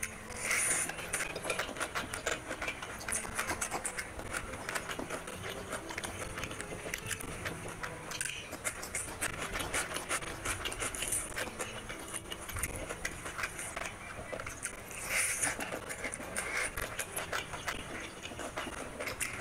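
Close-up eating sounds: wet chewing and lip-smacking with many quick mouth clicks, along with fingers squishing rice and curry, as a person eats rice and chicken curry by hand.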